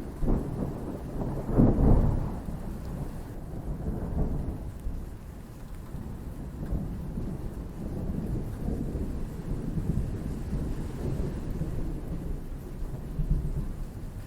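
Thunder rumbling through steady rain, with its loudest peal about two seconds in and then a long rolling rumble that goes on without stopping.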